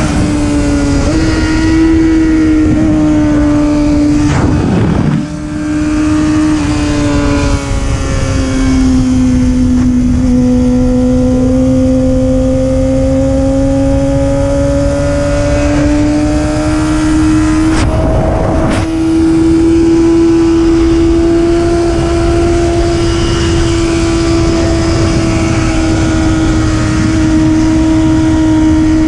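Superbike racing motorcycle engine held at high revs, its pitch sagging and climbing slowly with throttle and speed. Two abrupt pitch changes, about five seconds in and again near eighteen seconds, mark gear changes. Under it runs a steady rush of noise.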